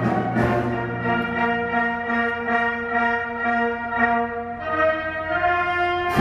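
An orchestra with brass playing slow, sustained chords. The chord changes about three-quarters of the way through.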